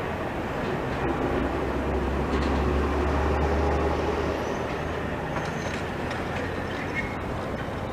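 Train passing at trackside, a steady heavy rumble with rail and wheel noise that swells for a few seconds in the middle.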